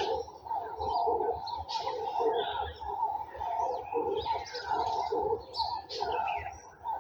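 A chorus of garden birds, many calling at once: quick high chirps and whistled glides over a dense, lower, continuous layer of calls.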